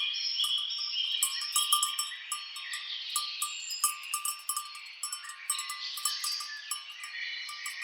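Many birds chirping and calling in quick overlapping phrases. Through it runs a steady clinking of bells hung on grazing cows.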